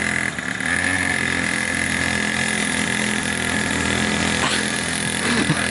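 Small 50cc two-stroke engine on a drift trike running steadily under way, with a high buzzing tone held throughout.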